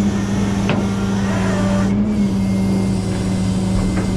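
Rollback tow truck running steadily with a constant low hum, a brief knock about a second in and another near the end.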